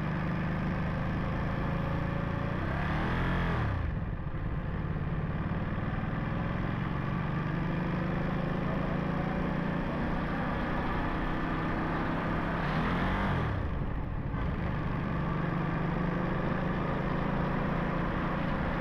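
Ducati Monster SP's 937 cc L-twin engine running under way, its pitch climbing and then dropping sharply twice, about three seconds in and again about thirteen seconds in, as the rider shifts gears.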